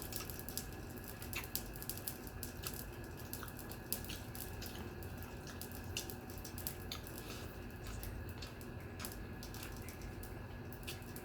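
Wet eating sounds of rice and curry eaten by hand: scattered sticky clicks and squishes from fingers mixing rice with dal and egg curry and from mouth smacking while chewing, over steady low background noise.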